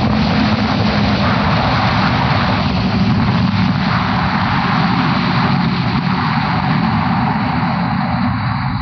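A motorcycle running steadily at speed, its engine drone mixed with a constant rush of wind noise.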